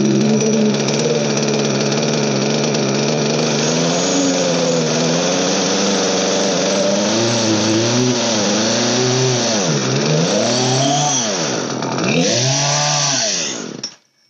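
Old Poulan chainsaw's two-stroke engine running, steady at first, then its revs sag and recover about four times before it cuts out near the end. The carburetor's low-speed mixture is still being set.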